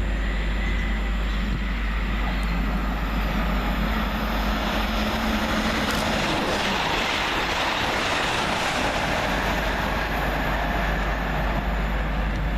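Great Western Railway Class 802 bi-mode express unit running through the station at speed without stopping, a steady rush of wheel and air noise that is fullest about halfway through.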